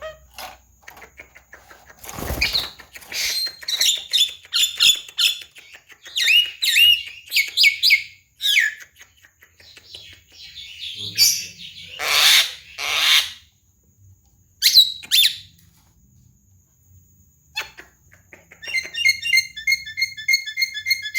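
Javan myna calling: a string of varied chirps and whistles mixed with harsh, noisy calls, in short phrases with pauses. Near the end comes a fast run of repeated chirps.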